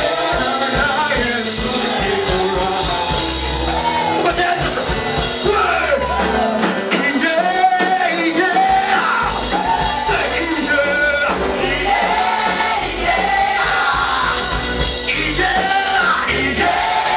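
Live gospel praise music: voices singing together over a full band with bass.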